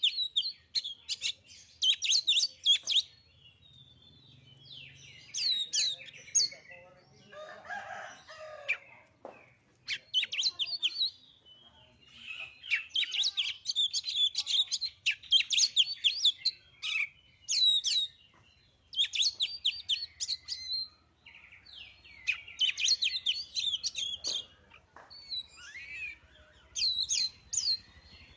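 Oriental magpie-robin (kacer) song, played as a lure to provoke another kacer: repeated bursts of fast, high chirping phrases with short pauses between them. A lower, rougher call comes about eight seconds in.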